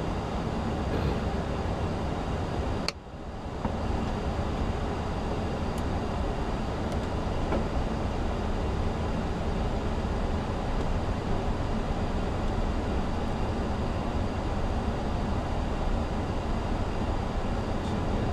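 Steady flight-deck noise of an Airbus A340 on approach: an even rumble of airflow and engines. About three seconds in a sharp click is followed by a brief dip in level before the noise returns.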